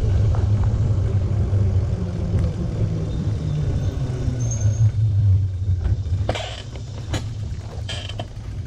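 A steady low rumble, with a few short sharp clicks and rattles starting about six seconds in.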